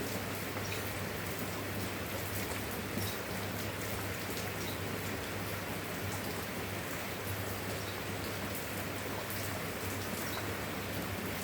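Steady rain, with individual drops ticking against a surface over an even hiss, and a steady low hum underneath.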